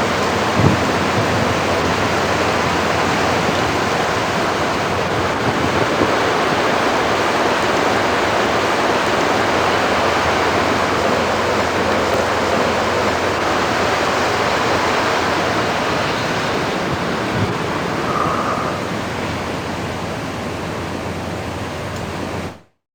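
Strong wind blowing, a loud steady rushing noise with gusts, with a short knock about half a second in. It cuts off abruptly near the end.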